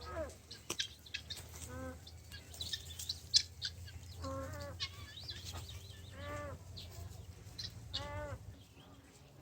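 Farm fowl calling: four short, rising-and-falling calls about two seconds apart, over scattered light clicks and one sharp tap a little after three seconds in.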